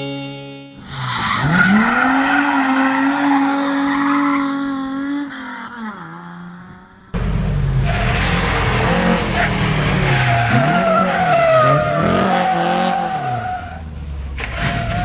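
Rally car driven sideways: the engine revs up and holds high, with tyre squeal. About seven seconds in, a cut brings a second car whose revs rise and fall repeatedly over loud tyre noise.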